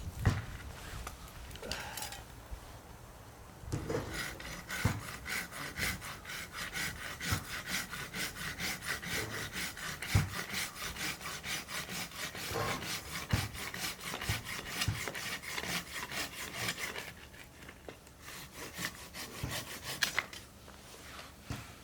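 Rhythmic back-and-forth scraping strokes of a hand tool working a material, about four strokes a second, starting about four seconds in and stopping about seventeen seconds in, with a few scattered knocks before and after.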